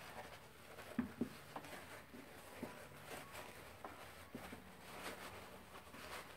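Fabric being handled: soft rustling with scattered light clicks and taps, the sharpest about a second in.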